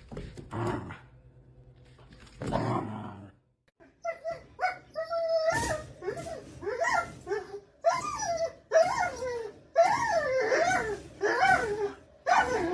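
A dog whining and yowling: a run of calls that bend up and down in pitch, coming about twice a second, starting after a brief silence a few seconds in.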